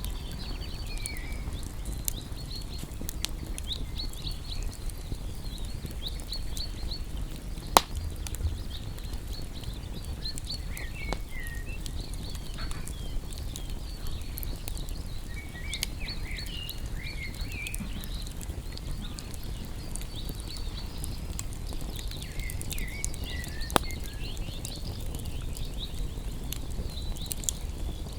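Wood campfire crackling steadily, with scattered sharp pops, two of them much louder. Birds chirp in the background throughout.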